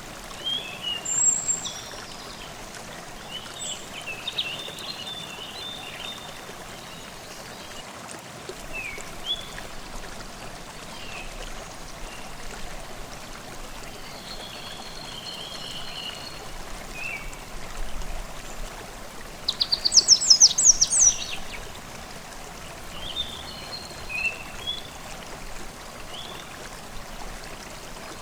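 Forest stream babbling steadily, with songbirds calling and chirping over it. The loudest moment is a quick run of sharp high notes about twenty seconds in.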